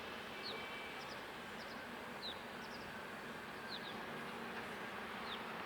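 Outdoor ambience: a steady background hum with short, high chirps of small birds repeating irregularly, about one or two a second.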